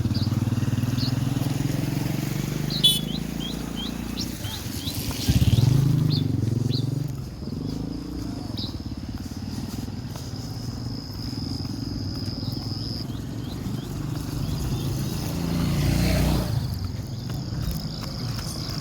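Roadside ambience: motor vehicles, motorcycles among them, passing now and then, with the engine hum swelling about 5 s in and again about 16 s in. Short bird chirps come in the first few seconds, and a steady high insect trill, like a cricket, runs through the second half.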